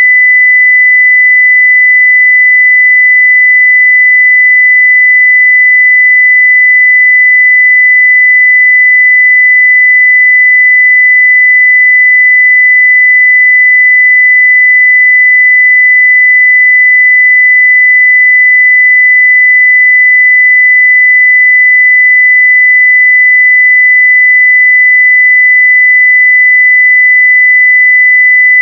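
A 2 kHz sine-wave test tone at full level, one pure steady pitch without change.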